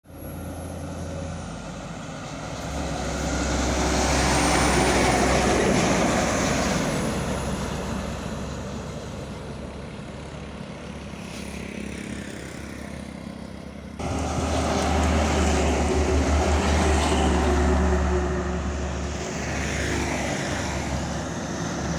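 Fuel tanker truck driving past at speed: engine and tyre noise swells to a peak and fades away. After a sudden cut about two-thirds of the way in, a second pass swells up and fades.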